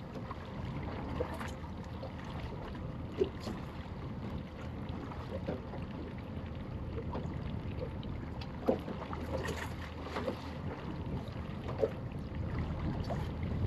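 Steady wind and water noise aboard a small boat at sea, with a few short knocks spaced a few seconds apart.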